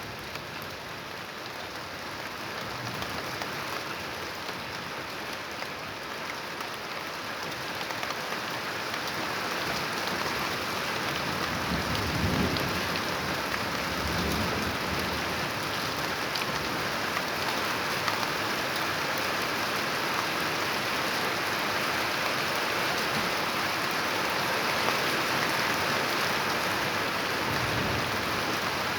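Steady rain falling, growing heavier over the first ten seconds or so, with low rumbles of thunder near the middle and again near the end.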